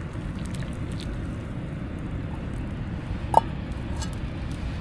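A pot of water bubbling as it heats over a campfire: a steady low rumbling simmer with a few faint clicks, and one short high chirp about three and a half seconds in.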